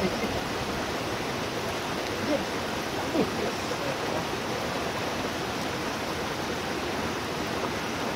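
Steady rushing noise of rain and running water, with a couple of brief faint sounds about two and three seconds in.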